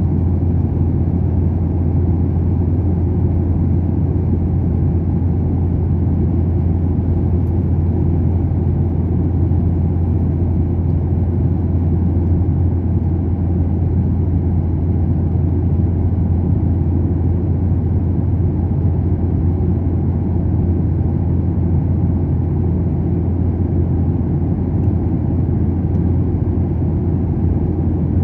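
Steady, loud low rumble of airliner cabin noise: jet engines and airflow heard from inside the passenger cabin, unchanging throughout.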